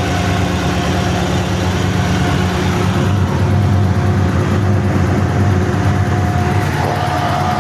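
Cummins V-903 V8 diesel engine running steadily just after a cold start, with a steady whine over the engine note.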